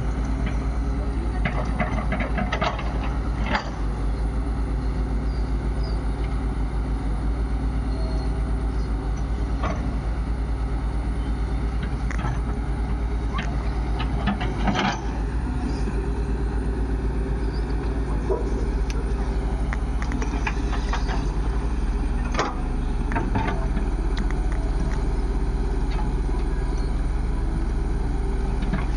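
Heavy diesel engine of a backhoe loader or tractor running steadily, with a few sharp knocks now and then.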